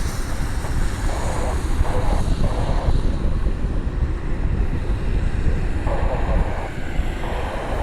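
Wind buffeting the microphone in a steady low rumble, with a few short, thin snatches of muffled voice.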